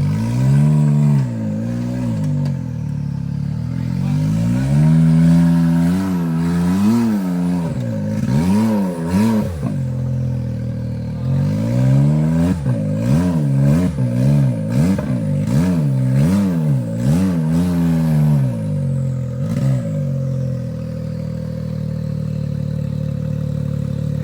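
Side-by-side UTV engine revving up and down in repeated short blips while crawling over rocks, with a few knocks in the middle. About 20 seconds in it settles to a steady idle.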